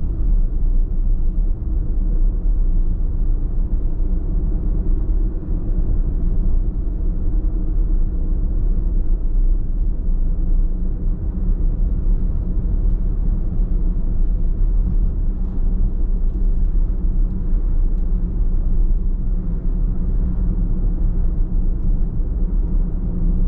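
Car driving at a steady pace: a continuous low rumble of road and engine noise, with no sudden events.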